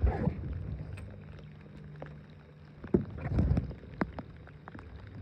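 Knocks and clunks of gear being handled in a small boat, sharpest at the start and again about three seconds in, with a short rattle just after, over a steady low hum.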